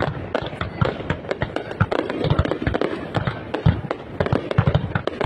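Fireworks display: a rapid, irregular run of bangs and crackling pops overlapping one another, with music playing underneath.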